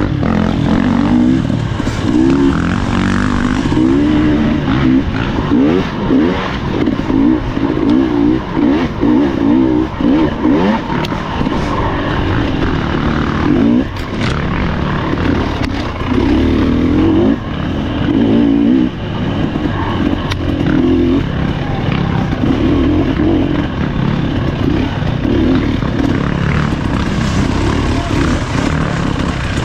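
Husqvarna TE300 two-stroke dirt bike engine being ridden hard off-road, its revs rising and falling over and over as the throttle is worked.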